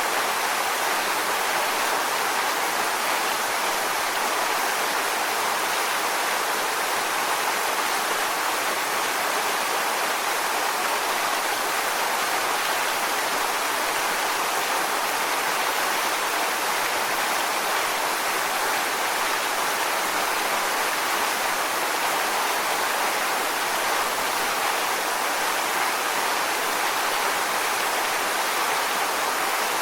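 Waterfall: a steady, unbroken rush of falling water, hissy and bright with little deep rumble.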